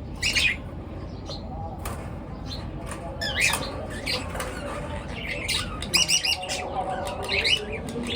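Pet birds squawking and chirping in many short, high calls, the loudest coming in bursts about a third of a second in, midway and near the end.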